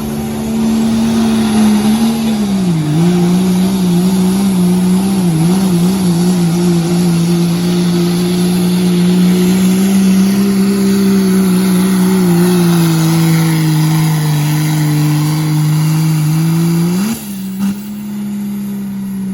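Turbocharged diesel pickup engine (2.6-inch smoothbore turbo class) running under full load while pulling a weight sled. Its pitch dips twice in the first few seconds and slowly sags as the load builds. Near the end it rises sharply, then drops as the throttle closes.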